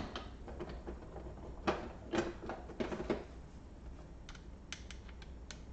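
Light clicks and taps of small parts being handled against a laptop's casing during reassembly. A few stronger clicks come about two to three seconds in, then a run of small sharp ticks near the end.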